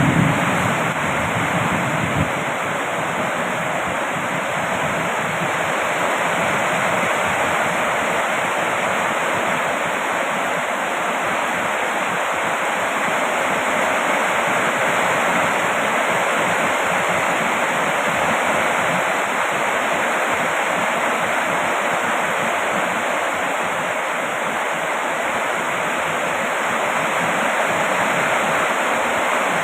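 Steady heavy rain falling, an even hiss with no breaks. A low rumble dies away about two seconds in.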